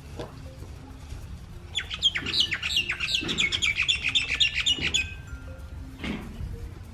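A bird calls a rapid run of high, downward-sliding chirps for about three seconds, starting about two seconds in, over soft background music.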